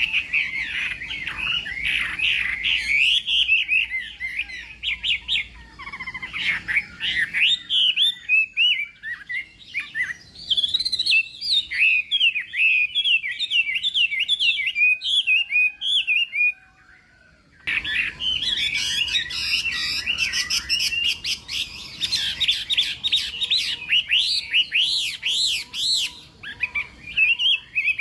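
Chinese hwamei (hoạ mi) singing a long, varied song of rapid whistled and trilled phrases sliding up and down. It breaks off about two-thirds of the way through and starts again abruptly a second later.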